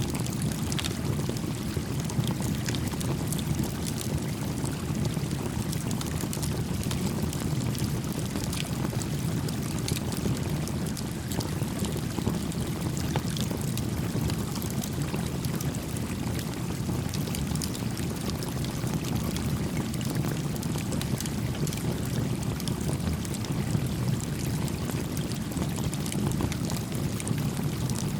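A small campfire crackling, with scattered sharp pops, over the steady low rush of a gently flowing stream.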